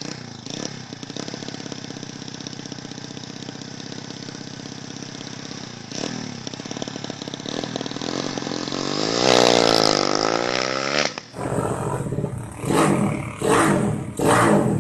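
Motorcycle engine idling steadily, then revved up and back down once, followed after a break by a quick series of throttle blips.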